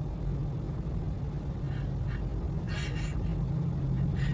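Car engine idling with a steady low hum inside a stopped car, and a few short higher-pitched sounds over it about two, three and four seconds in.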